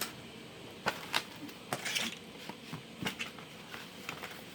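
Light, irregular clicks and taps of small plastic objects being handled, a dozen or so scattered through a few seconds.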